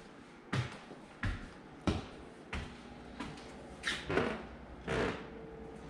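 Footsteps at an even walking pace, about three steps every two seconds.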